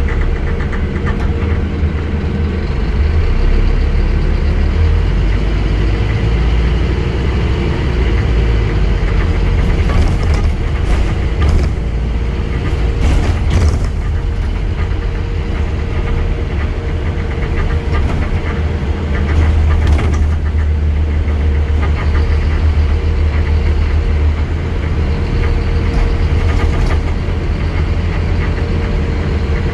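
Scania N230UD Enviro 400 double-decker bus's five-cylinder diesel engine running steadily, a continuous low drone, with scattered rattles and knocks around the middle.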